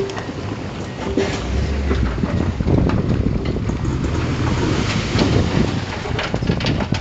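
Diesel engine of heavy earthmoving machinery running steadily, with a few sharp metallic clanks.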